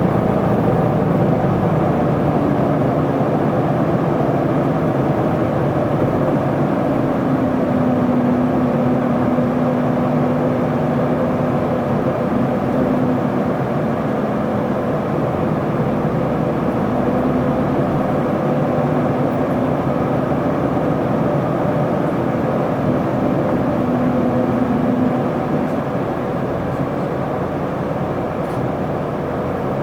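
Onboard running sound of an Isuzu Erga city bus, its inline-six diesel engine and road noise going steadily. A steady whine comes in twice, and the noise eases slightly near the end.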